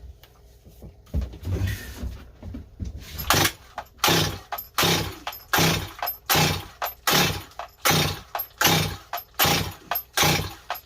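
Stihl 025 chainsaw being cranked over and over on its starter without firing, about two rasping strokes a second, starting about three seconds in; the saw won't start, and it later turns out no fuel is reaching the carburetor.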